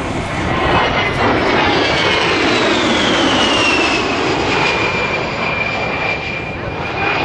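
A-10 Thunderbolt II's twin TF34 turbofans during a low pass: loud rushing jet noise with a high whine that falls in pitch over the first few seconds, then holds steady.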